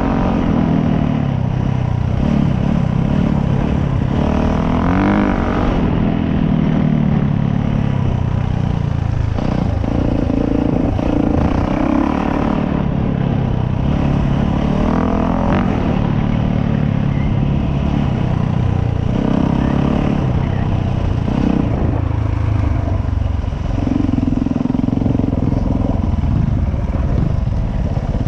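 Dirt bike engine under way, its pitch climbing and dropping again and again as the throttle is opened and the bike shifts through the gears.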